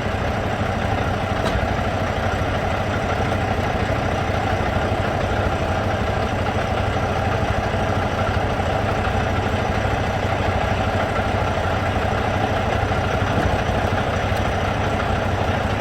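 A vehicle engine idling steadily and evenly throughout.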